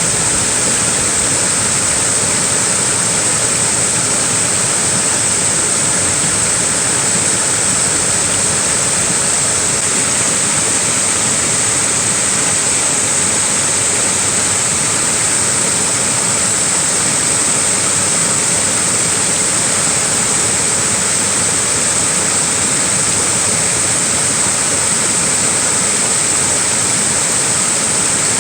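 Small waterfall splashing in a steady, unbroken rush of water.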